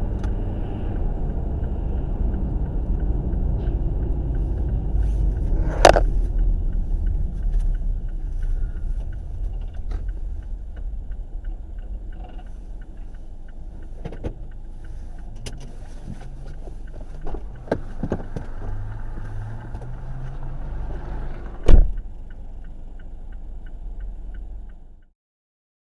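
Car driving with a steady low road and engine rumble. A sharp bang comes about six seconds in and a louder one near the end, with a few lighter knocks between. The sound cuts off abruptly just before the end.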